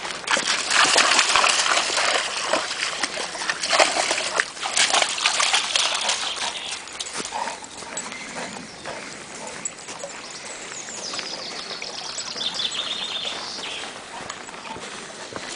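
Splashing and sloshing through shallow river water, busiest in the first half and thinning out after about seven seconds, over the trickle of the stream.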